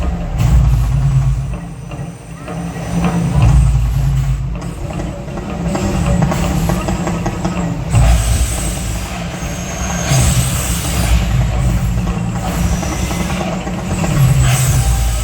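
Mirage hotel volcano show: a deep, loud, continuous rumble, with hissing bursts about ten seconds in and again near the end.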